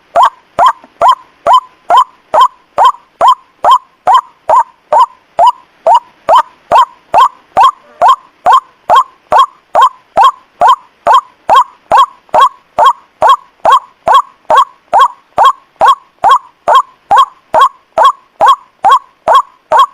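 White-breasted waterhen (ruak-ruak) calls used as a lure recording: a steady run of identical short calls, about two a second, each centred around 1 kHz and opening with a sharp click.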